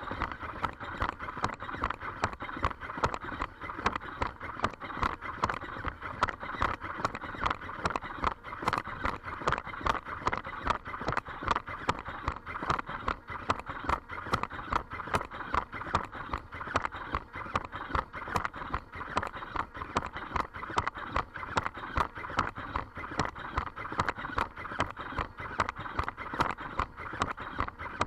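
3D-printed quadruped robot dog walking: its feet tap the floor in a quick, even rhythm, over the steady whine of its servo motors.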